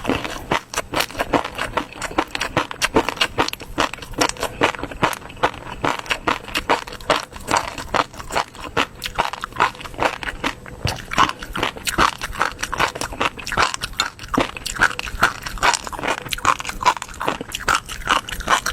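Close-miked chewing and mouth sounds of someone eating, with many rapid wet clicks and crunches.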